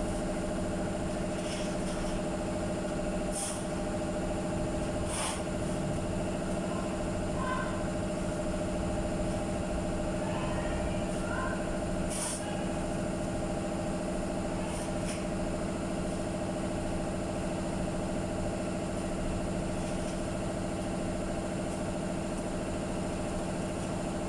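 Steady machine hum in a body shop, one even pitch throughout, with a few light clicks.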